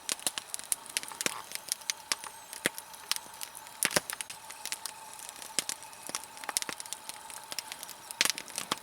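Log campfire (a nodya of stacked damp logs) crackling, with frequent irregular sharp pops over a low hiss of burning.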